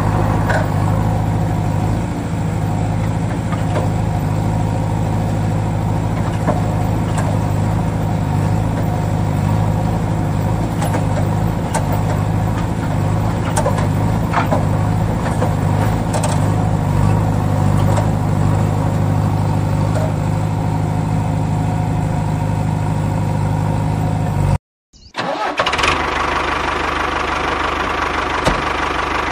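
A motor running steadily with a low, even hum. About 25 seconds in the sound cuts out for a moment, and a different, rougher running sound follows.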